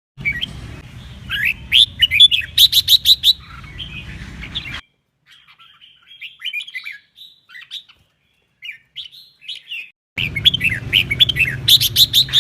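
Red-whiskered bulbul singing: quick, bright warbled phrases mixed with sharp chip notes, in spliced recordings that cut in and out abruptly, with a softer passage in the middle.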